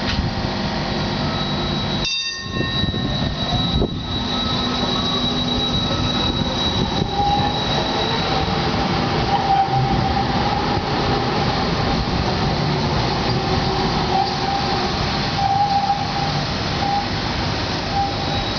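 Tram running on its rails with a loud, steady rumble and high-pitched wheel squeal that holds through most of the passage, with a brief break about two seconds in.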